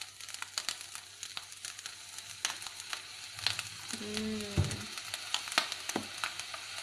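Fried rice sizzling in a hot wok, with a steady hiss and frequent sharp crackles from sauce just poured onto it. A wooden spatula starts stirring and scraping the rice near the end.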